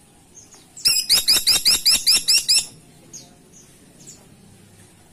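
Woodpecker giving a rapid series of about a dozen sharp, high calls in under two seconds, each note dipping in pitch. The series starts about a second in and stops abruptly.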